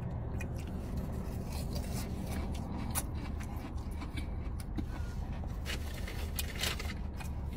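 Steady low hum inside a car, with scattered soft clicks and smacks from a person chewing food.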